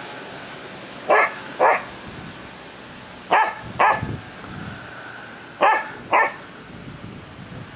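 A dog barking three times in pairs, each pair of barks about half a second apart.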